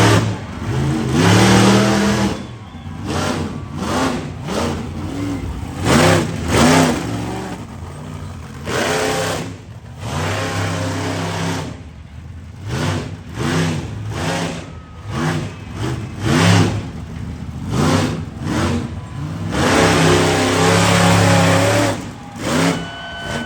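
Monster truck engine revving hard in repeated short blips between drops toward idle, with a few longer held revs.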